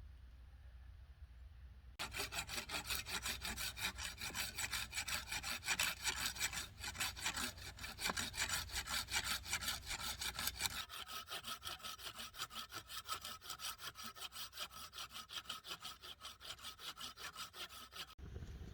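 Hand saw cutting wood in steady back-and-forth strokes, about three a second, starting a couple of seconds in and stopping abruptly near the end.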